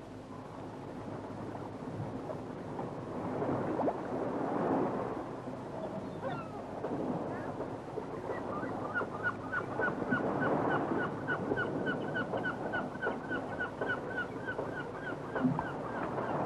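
A bird calling in an even series of short, high, downward-slurred notes, about four a second, starting about halfway through. Before the calls begin there is a rushing, swelling noise.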